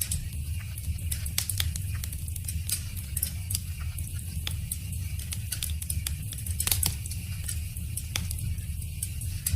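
Wood fire crackling, with irregular sharp pops and snaps over a steady low rumble; a brief flurry of louder pops comes at around two-thirds of the way through.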